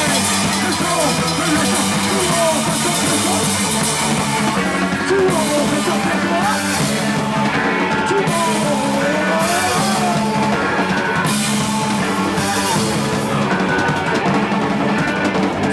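Rock band playing loud live music: drum kit with crashing cymbals and distorted guitar, in a punk-rock style.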